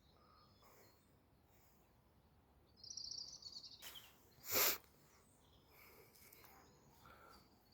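Quiet outdoor ambience with a small bird giving a quick run of high chirps about three seconds in, then one short, sharp burst of noise a little past halfway, the loudest sound here.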